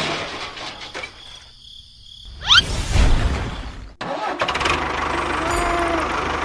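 A quick rising whistle-like glide with a burst of noise a little past two seconds in. After an abrupt cut at about four seconds, an engine runs steadily.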